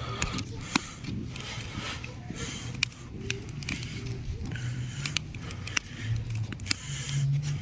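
Small wood campfire crackling with scattered sharp pops, broken by short rushes of air blown onto it to get the wood to catch.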